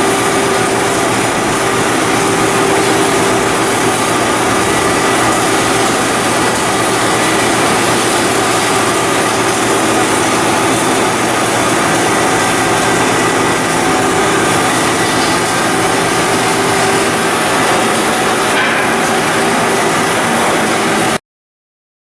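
Loud, steady shipyard machinery noise, a dense rushing din with several steady hums in it, that cuts off abruptly about a second before the end.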